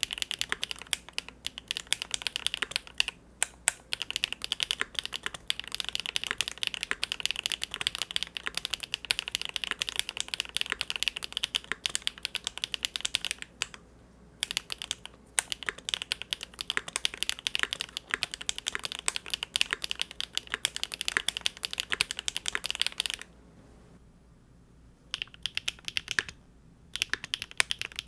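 Typing on a Big Whale custom mechanical keyboard with GEON Raw Zero switches on a polycarbonate plate: a fast, steady stream of keystrokes. The typing stops for about two seconds near the end, then starts again.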